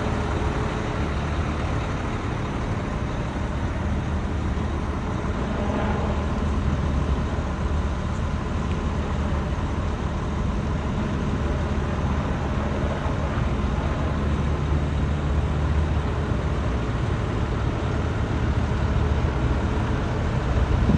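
Fire truck engine running steadily, a low even rumble.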